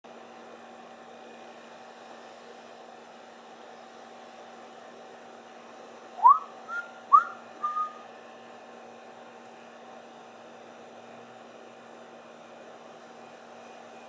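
A bird's whistled call of four short notes about six seconds in: two quick upward-sweeping whistles, each followed by a brief level note. Under it runs a steady hum.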